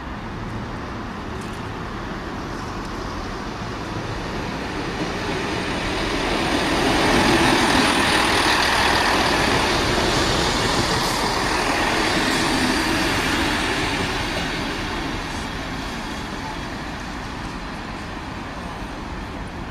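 A vehicle passing by: the noise builds over the first seven seconds, stays loudest for several seconds, then slowly fades.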